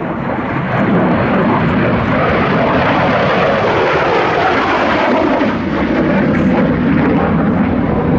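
Lim-5 (licence-built MiG-17F) jet fighter flying past with a loud jet roar. It builds over the first second, and its pitch falls as the jet goes by. The sound comes from its single centrifugal-flow turbojet.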